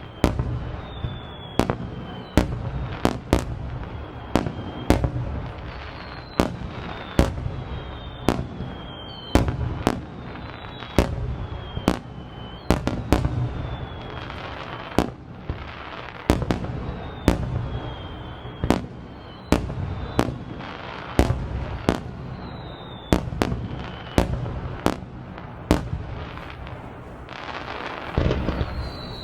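Aerial fireworks bursting in rapid succession, a sharp bang about every second with rumbling echo after each. Thin whistles falling in pitch run between the bangs, with a longer one near the end.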